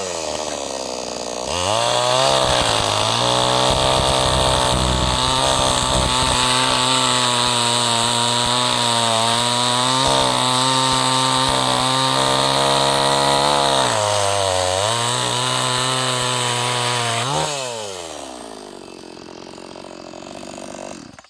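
Two-stroke chainsaw running on a newly fitted ignition coil. It idles, then revs up at about a second and a half and holds high revs for around twelve seconds. It dips briefly, revs again, settles back to idle and cuts off near the end.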